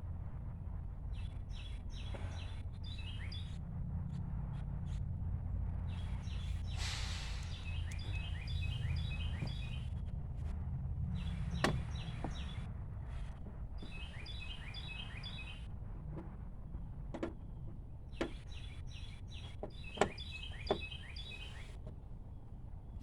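A songbird sings in several bouts of quick, repeated chirps that drop in pitch, over a steady low rumble. A few sharp clicks and knocks come in the second half.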